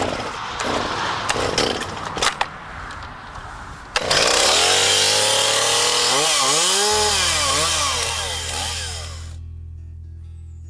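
Gasoline chainsaw starting up about four seconds in, after a few knocks and handling sounds, then revved up and down several times before fading out. Music comes in underneath as the saw fades.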